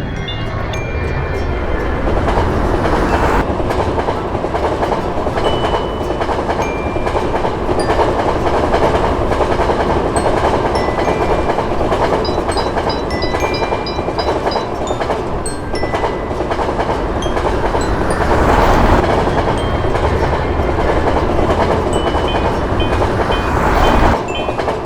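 A train passing by, a long, loud, steady rush of train noise that cuts off abruptly near the end.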